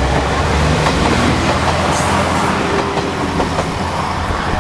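Diesel railcar train passing close by, its engine droning steadily under the rush of the running train, with the wheels clicking over the rail joints.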